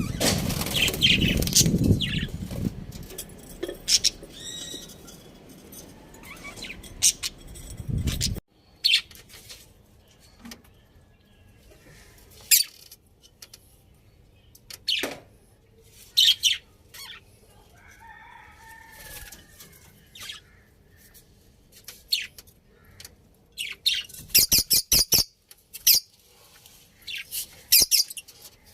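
Pet budgerigars chirping in short, scattered high calls, with a quick run of chirps near the end. Before that, a loud low rustling noise fills the first eight seconds or so and cuts off suddenly.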